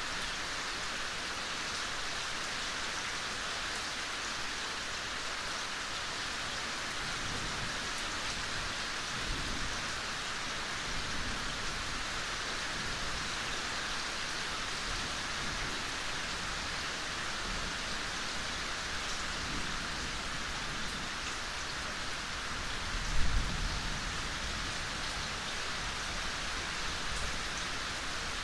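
Steady soft rain, an even hiss with no let-up. About three-quarters of the way through there is one brief low thump.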